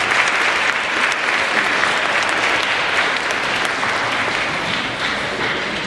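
An audience applauding, many hands clapping at once, slowly fading toward the end.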